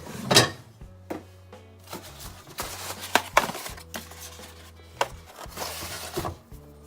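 Scattered knocks and clicks of kitchen items being handled on a counter, with two short rustles, over background music.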